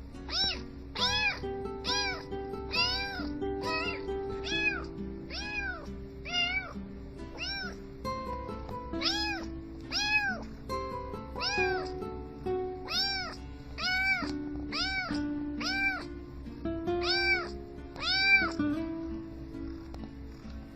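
A cat meowing over and over, about once a second, each meow rising and falling in pitch, over background music with a steady beat.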